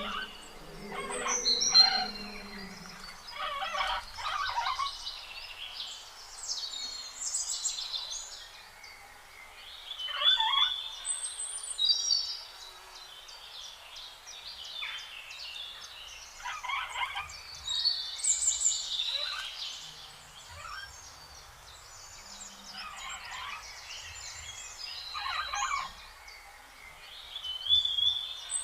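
Small birds chirping and twittering in short bursts of rapid notes, a new burst every couple of seconds.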